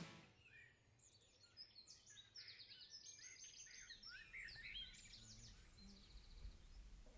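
Faint birdsong: a string of short chirps and quick trills.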